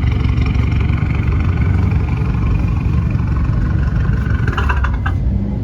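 Car engine running nearby with a deep, steady exhaust rumble. A brief higher-pitched sound cuts in about four and a half seconds in.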